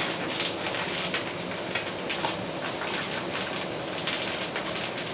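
Rain falling: an even hiss with many irregular, sharp patters of drops.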